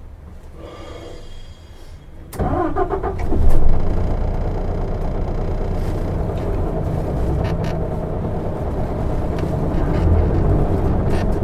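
Isuzu Erga diesel city bus heard from inside: a low quiet rumble, then about two seconds in the engine comes in suddenly and rises as the bus pulls away. After that it runs steadily under way.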